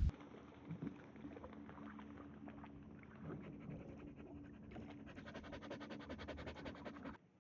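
A dog panting faintly, over a low steady hum that stops about seven seconds in.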